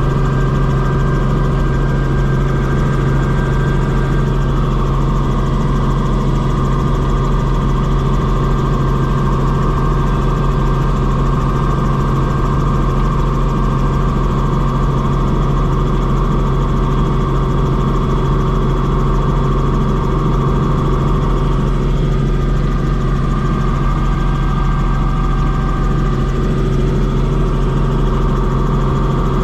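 Helicopter running steadily in flight: a loud, constant engine and rotor drone with a steady low hum.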